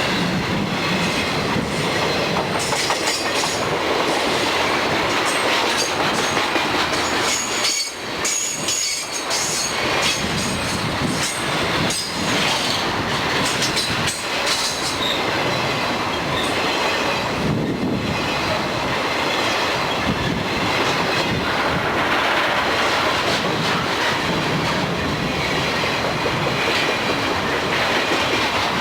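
Freight train cars rolling past at close range, wheels clacking over rail joints, with high-pitched wheel squeal coming and going, strongest a third of the way through.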